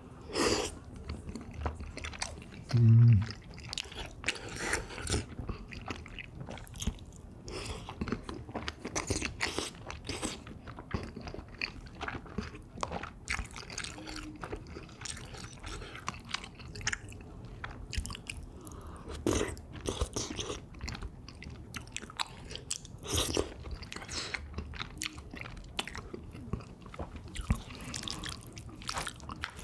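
Close-miked eating: wet chewing of soft, chewy rice cakes in a cream sauce, with irregular mouth clicks, smacks and bites throughout. A short low hum comes about three seconds in.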